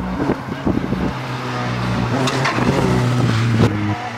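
A rally car's engine approaching at speed and growing louder, its note stepping up and down as the revs change.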